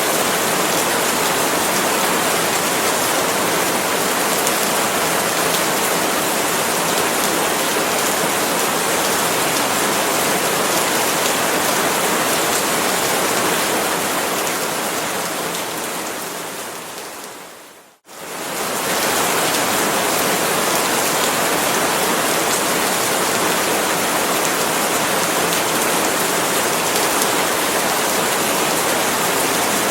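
Steady rain falling on palm leaves, an even hiss. About two thirds of the way through it fades to near silence over a couple of seconds, then comes straight back within a second.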